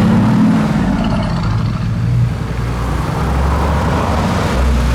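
A car engine running with a low rumble, its pitch shifting slightly, over street noise.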